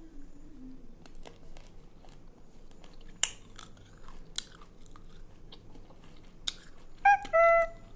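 Close-up chewing of a crisp jujube fruit, with a few sharp crunches as it is bitten down. Near the end there is a brief high pitched sound.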